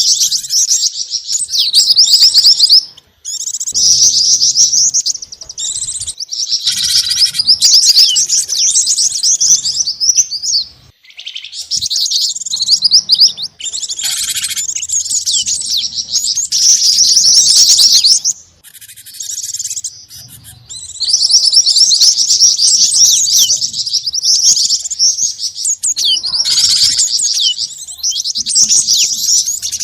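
Bird-lure recording mixing calls of cinereous tit (gelatik batu), black-winged flycatcher-shrike (jingjing batu) and mantenan: dense, rapid, high-pitched chirping and twittering in long runs, broken by brief pauses about three, eleven and eighteen seconds in.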